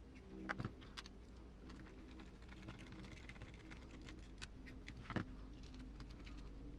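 Scattered light clicks and taps from small hand tools and parts being handled, with a small cluster about half a second in and another about five seconds in, over a faint steady hum.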